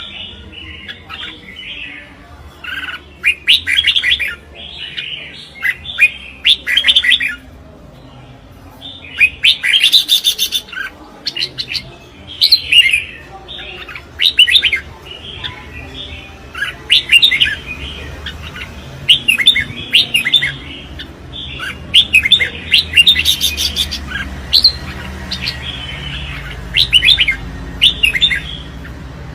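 Red-whiskered bulbul competition song: short, bright whistled phrases repeated one after another with brief pauses between them.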